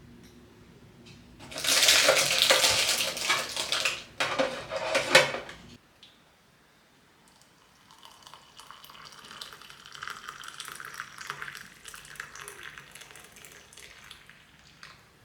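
Tap water running hard into a sink in two bursts, cutting off sharply about six seconds in. After a short pause comes a softer run of water with light clicks and clinks.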